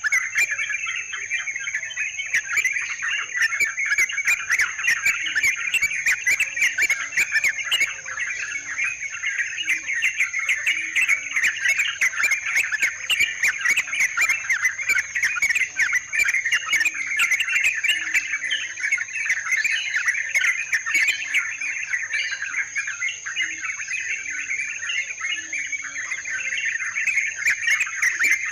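Dense, continuous chattering calls of trucukan (yellow-vented bulbuls), many calls overlapping, with a steady high-pitched tone running beneath them.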